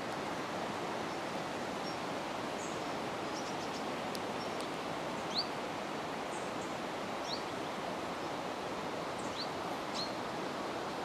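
A steady, even rushing background noise, with a few short, high bird chirps scattered through the second half.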